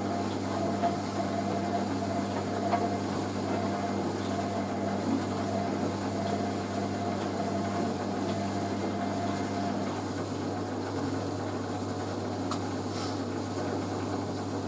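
Hoover A3060 Electronic 1100 washing machine's motor running steadily as the drum turns, a low hum with a steady whine over it.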